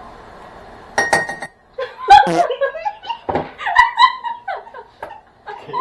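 A brief clatter of kitchenware about a second in, then people laughing.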